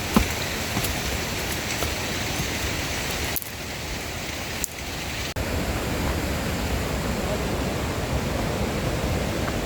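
Steady rush of a fast mountain stream, a dense even noise, broken by abrupt jumps in level a little past the middle.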